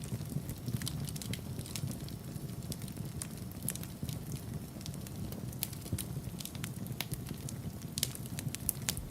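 Wood fire in a fireplace crackling, with a steady low rumble of the flames and irregular sharp pops and snaps, a flurry of louder pops near the end.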